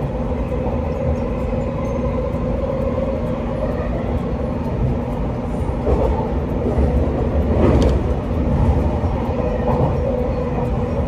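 Running noise heard from inside a moving electric train: a steady rumble of wheels on rail with a constant hum, and a brief louder clatter about six seconds in and again near eight seconds.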